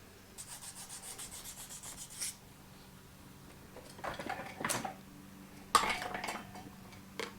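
Hand abrading of dried glue off a starter magnet: quick back-and-forth rubbing strokes, about eight a second for two seconds, then two louder scraping bursts, the second starting sharply, and a short knock near the end.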